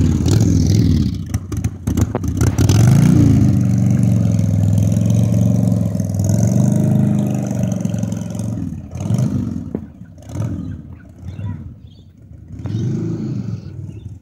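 1986 Harley-Davidson Sportster 1100's air-cooled V-twin running on a freshly rebuilt carburettor, revving up and down several times while ridden, getting quieter in the last few seconds.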